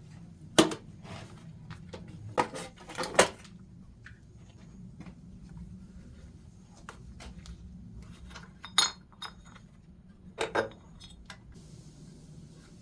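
Metal pieces clinking and knocking together in a handful of sharp strikes, some in quick pairs, over a low steady hum.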